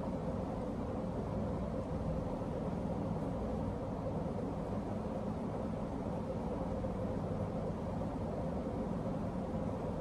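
Emerson Legend ceiling fan running steadily: an even rush of moving air with a low rumble and a faint steady motor hum.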